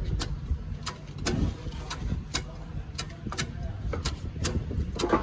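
Sharp, irregular clicks or taps, about two or three a second, over a low steady rumble.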